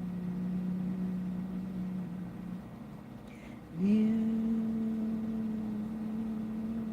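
A person humming a slow, low tune in long held notes: one note fades out about two and a half seconds in, and after a short breath a new, slightly higher note slides up and is held.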